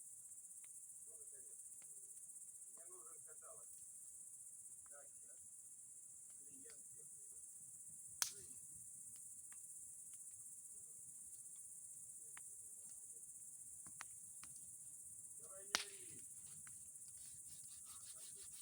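Crickets chirring in a steady high-pitched drone, with two sharp snaps, about eight and sixteen seconds in, standing out as the loudest sounds.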